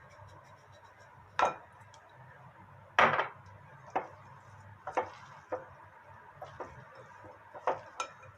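Irregular knocks and taps of hard objects against wood, about nine in all, the loudest about a second and a half and three seconds in.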